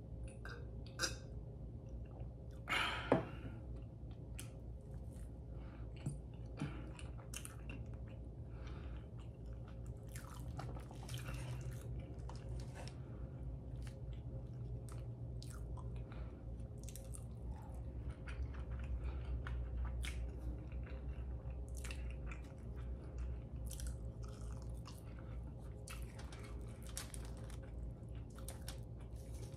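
Close-miked chewing and biting of breakfast food (pancakes, scrambled eggs and bacon), with many small mouth clicks and an occasional crunch. A brief, louder sound stands out about three seconds in.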